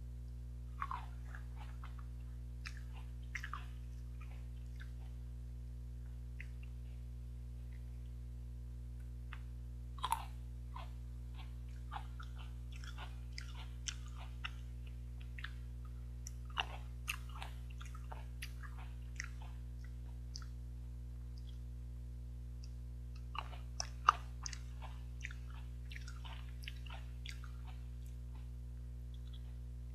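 Mouth chewing and biting seedless green grapes: scattered short, crisp clicks in clusters, busiest in the middle and near the end, over a steady low hum.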